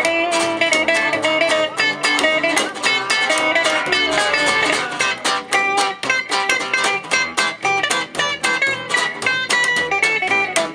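Live gypsy jazz (jazz manouche) band playing an instrumental passage: acoustic guitars strumming a steady, even beat under a melodic lead line.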